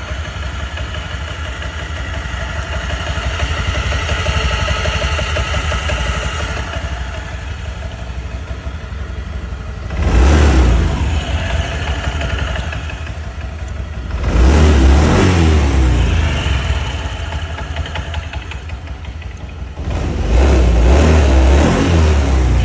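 Honda Lead 125 scooter's single-cylinder four-stroke engine and belt-drive transmission running, revved up three times, about ten, fourteen and twenty seconds in. The owner is demonstrating an abnormal noise coming from the transmission.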